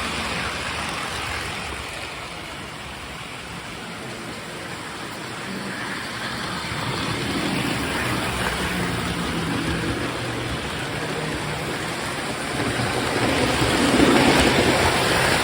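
Postwar Lionel O-gauge electric toy trains running around the track: a steady rumble of wheels on the three-rail track over a faint motor hum, louder near the end.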